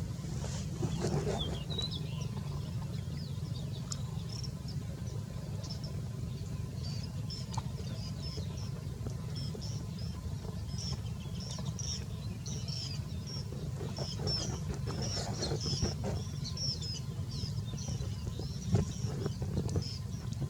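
Small birds chirping: many short, high chirps coming thick and fast over a steady low rumble, with a few faint knocks.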